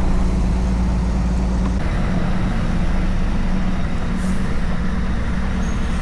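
A vehicle engine running steadily with a low hum. About two seconds in the lowest rumble drops away and the sound turns rougher and noisier.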